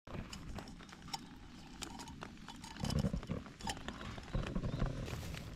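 Close handling and eating noises from a snack being opened and eaten: rustling, many small sharp clicks, and a few low thumps about three seconds and five seconds in.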